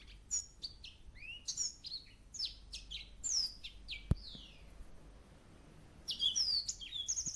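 Small birds chirping: many quick, short notes sweeping up and down in pitch, with a lull of about a second and a half past the middle. A single sharp click about four seconds in.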